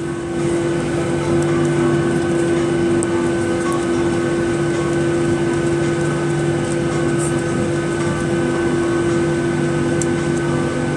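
Boeing 737-800's CFM56 jet engines and cabin air heard from inside the passenger cabin: a steady hum with fixed tones over a rushing noise, holding the same pitch throughout.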